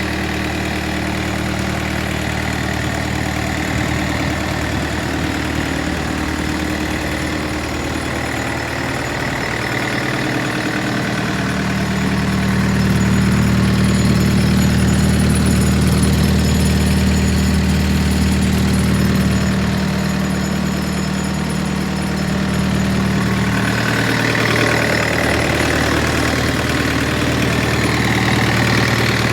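Kobelco SK50 mini excavator's diesel engine running steadily, a little louder from about twelve seconds in.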